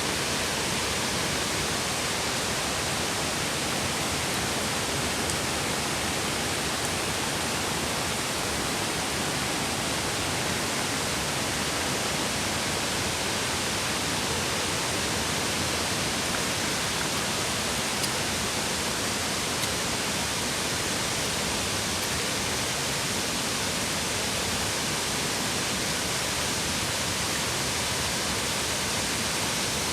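Mountain stream rushing, a steady, even wash of flowing water, with two faint ticks about two-thirds through.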